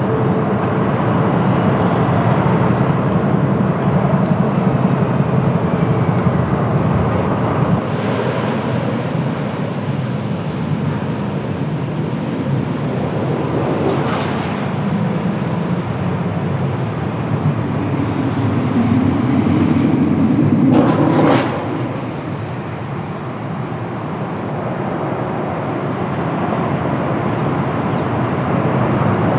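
Airliner jet engines rumbling on approach to landing, mixed with gusty wind noise on the microphone. The level swells near the end and drops off suddenly about 21 seconds in.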